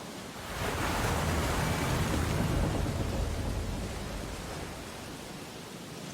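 Ocean waves on a beach: a wave comes in about half a second in, swelling into a louder, deep rush of surf that fades over a few seconds back to a steady surf hiss.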